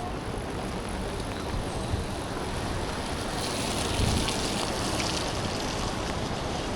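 Street traffic on a rain-wet road: a steady hiss of tyres and rain, with a vehicle passing close by about three and a half to five and a half seconds in.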